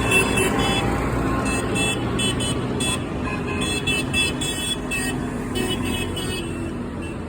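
Tractor engines running as a parade rolls by, with short high-pitched tones sounding on and off over the low engine rumble.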